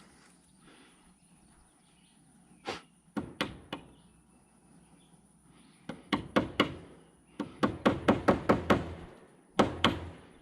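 Hammer driving nails into a wooden frame. A few separate blows come first, then quick runs of strikes, with two last blows near the end.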